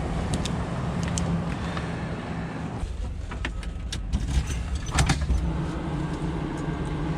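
An engine running steadily at idle, with several sharp knocks and clunks over it, the loudest about five seconds in.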